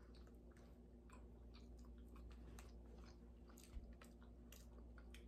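Faint chewing of a mouthful of chocolate brownie, with soft irregular clicks of the mouth working.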